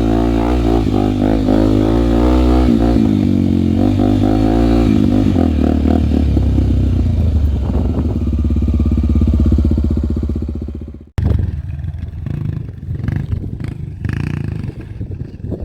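Honda single-cylinder trail bike engine running, its pitch wavering and shifting as the revs change, then fading away about ten seconds in. After an abrupt cut, a lower, rougher stretch of clattering noise follows.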